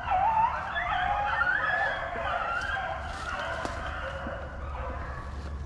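A pack of rabbit hounds baying on a rabbit's trail: several dogs giving long, wavering, overlapping cries, loudest in the first couple of seconds.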